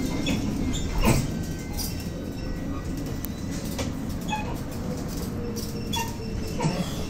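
Cabin sound of a BKM-213 trolleybus on the move: a steady low rumble with short, high squeaks and chirps every second or so and a few sharp clicks. These are the strange noises this particular vehicle makes.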